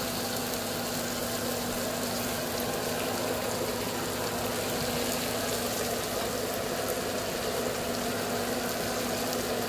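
Egg and vegetable stir-fry sizzling steadily in a wok over a steady low hum.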